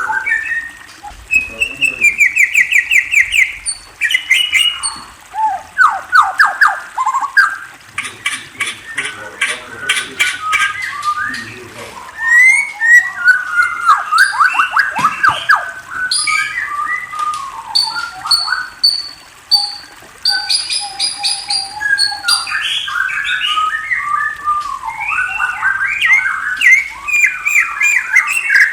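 Murai songbird singing a long, varied song of rapid trills, whistled notes and sweeping slurs, phrase after phrase with brief pauses.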